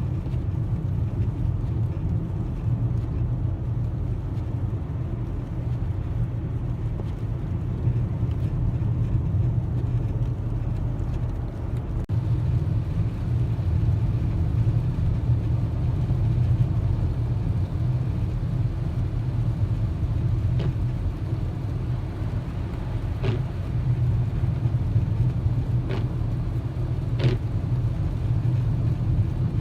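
Steady low rumble of a car's engine and tyres heard from inside the cabin while driving on a snowy road, with a few faint ticks in the second half.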